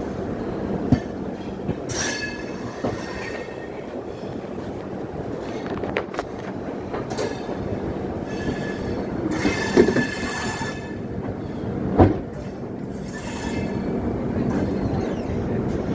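Passenger train coaches running on the rails with a steady rumble, the wheels squealing in short stretches four times, with a few sharp knocks, the loudest about twelve seconds in.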